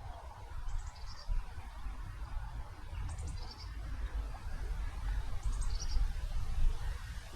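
A small bird giving a short, high two-part call, repeated three times about every two and a half seconds, over a steady low rumble.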